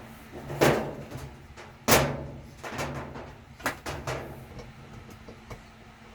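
Knocks and clunks of handling: two loud ones near the start, a little over a second apart, then several lighter knocks over the next two seconds.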